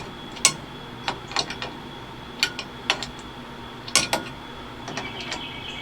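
Scattered metal clicks and clinks, irregularly spaced, of a socket being worked onto hex-head bolts on a steering wheel hub, the socket catching against the tight hex.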